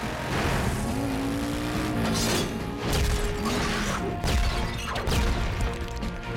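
Action-cartoon soundtrack: dramatic score music mixed with vehicle engine and crashing impact sound effects, with several sharp hits.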